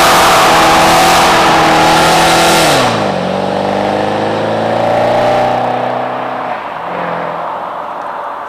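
2008 Dodge Challenger SRT-8's 6.1-litre Hemi V8, with aftermarket exhaust, held at high, steady revs during a burnout, the spinning rear tyres adding a loud hiss. About three seconds in the revs drop and the tyre noise stops; the engine then revs up again as the car pulls away and fades out.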